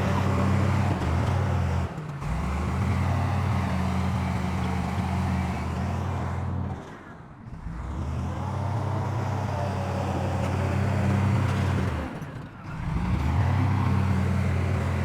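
Heavy diesel engine of earth-moving machinery running steadily with a deep, low drone. The sound drops away briefly three times.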